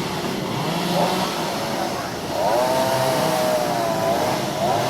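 Small petrol engine running, its pitch rising about two and a half seconds in and wavering up and down, over a steady low hum.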